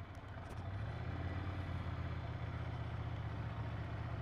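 Ducati Monster 797's air-cooled L-twin engine running at low revs, a steady low hum that grows louder about a second in.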